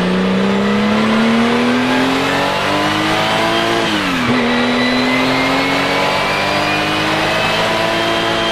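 Porsche 935 K3's twin-turbo flat-six racing engine under full acceleration, its pitch climbing steadily, dropping sharply on an upshift about four seconds in, then climbing again in the next gear.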